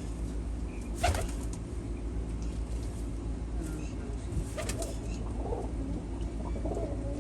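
Domestic pigeons flapping their wings in short bursts, about a second in and again around four to five seconds in, over a steady low hum.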